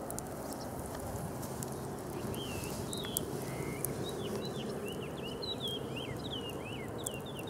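Wood fire burning in a fire pit: a steady rush with scattered small crackles. From about two seconds in, a bird chirps in quick runs of short notes that get busier in the second half.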